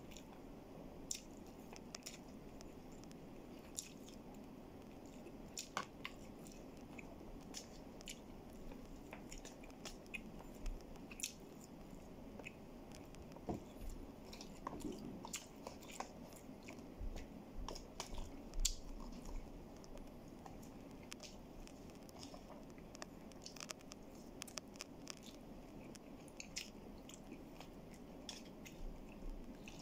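Close-up chewing of a person eating rice and chicken adobo, with many short clicks and scrapes of a plastic spoon against plastic food tubs.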